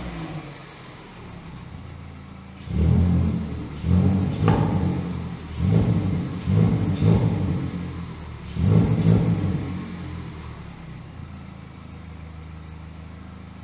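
Mazda MX-5 ND four-cylinder engine through a Guerrilla Bypass cutout exhaust, idling and then blipped about five times in quick succession before settling back to idle.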